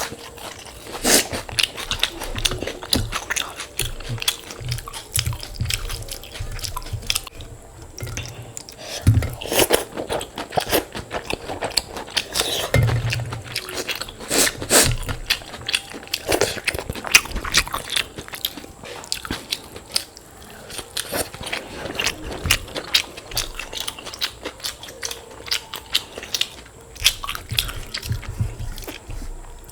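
Close-miked eating: irregular crunching bites and chewing of a meal of soaked water rice with crisp fried sides.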